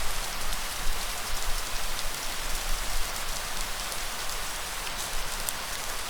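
Steady rain falling, a dense even hiss with scattered sharp drop hits.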